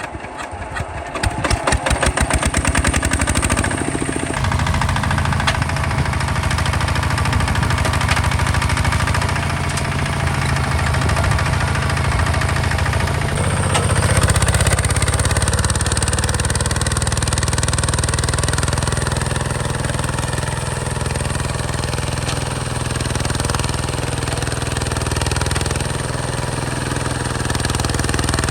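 Hinota HG Gold 155 DI tractor's direct-injection diesel engine starting, its separate firing beats quickening over the first two seconds into steady running. Its sound shifts about halfway through as the engine speed changes.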